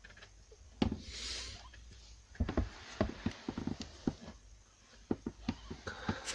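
Soft, irregular clicks, taps and a brief rustle from a mother cat moving and tending her newborn kittens in their bedding.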